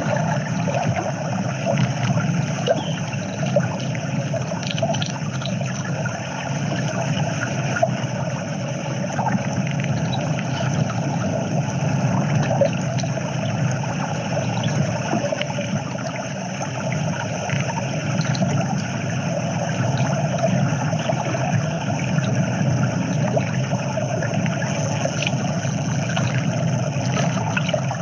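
Playback of a soundscape composition built from winter field recordings: a steady, dense wash of recorded environmental sound with a low rumble and scattered faint ticks.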